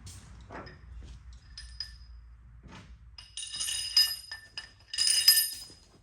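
Metal parts clinking and rattling against each other with a bright ringing, in two busy clusters in the second half, the second the loudest, after a few scattered light ticks.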